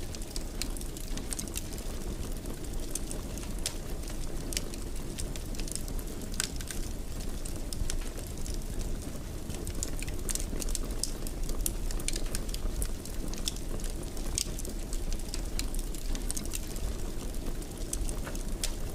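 Wood fire burning in a fireplace: a steady low rumble with irregular sharp crackles and pops throughout.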